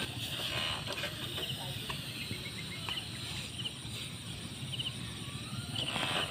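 Open-field ambience with small bird chirps in short quick clusters recurring every second or so, over a steady low background noise.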